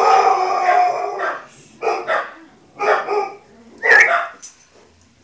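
Dog-like barking: one long howling bark of about a second, then three short barks about a second apart.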